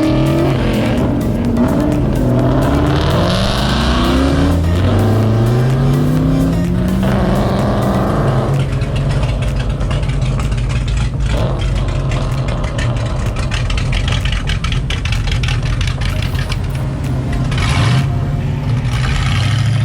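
Car engine revving hard in repeated rising and falling sweeps, then holding a steady high note under a noisy rush from about eight seconds in.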